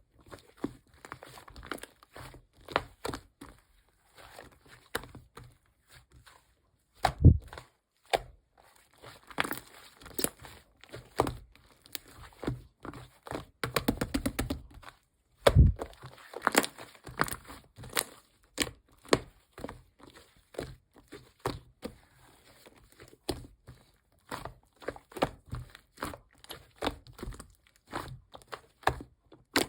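Close, hands-on handling of small objects on a hard surface: irregular light taps and knocks, with bursts of crinkling and rustling like paper or plastic being handled or torn. Two heavier thuds come about a quarter and about halfway through.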